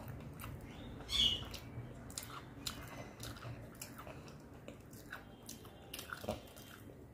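Close-up chewing and mouth sounds with scattered soft clicks, as fingers break fried fish and mix it with rice on a steel plate; one louder click about a second in.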